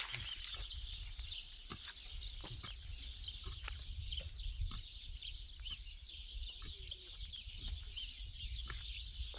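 Birds chirping in a dense, continuous chorus of short high calls, over a low rumble with scattered small clicks.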